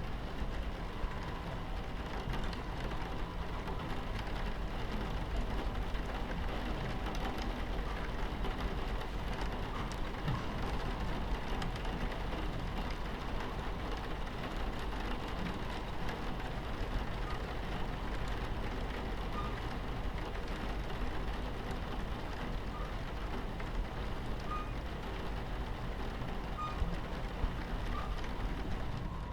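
Steady low rumble of a train running along the track, mixed with rain pattering on the carriage window and a few faint scattered drop ticks.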